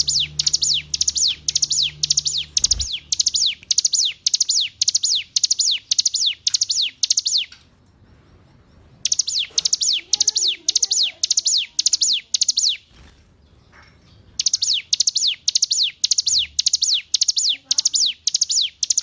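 Ciblek gunung (a mountain prinia) singing: a fast run of high, down-sweeping chirps, about two to three a second, in three bouts with short breaks about eight and thirteen seconds in.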